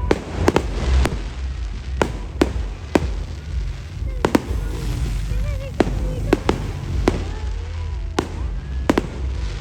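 Fireworks display: about a dozen sharp bangs at uneven intervals over a low rumble, with crowd voices faintly in the background.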